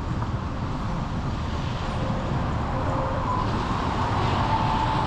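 Road traffic noise: a steady rumble of engines and tyres on the road. A faint whine grows a little louder in the second half.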